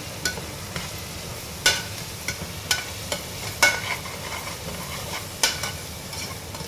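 Chopped onions frying in oil with a steady sizzle while a spoon stirs them, knocking against the side of the pot several times.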